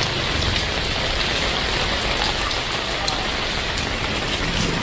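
Heavy rain falling steadily: an even hiss with individual drops ticking through it.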